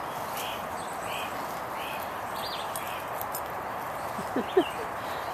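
Outdoor background of a steady even hum with a small bird calling in a regular series of short chirps, a little under one a second. Near the end comes one short, sharp sound, the loudest moment.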